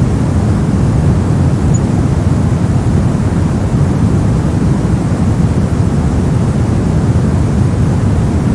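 Steady, unbroken generated white noise for sleep, an even rushing hiss weighted toward the low end, with no changes or events.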